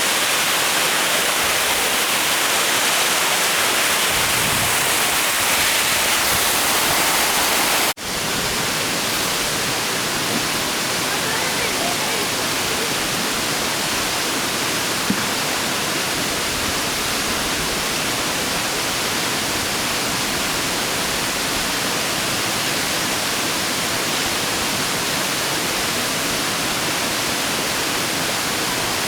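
Waterfall rushing, a steady roar of water falling over rock. It breaks off for an instant about eight seconds in and carries on with a slightly different, even rush.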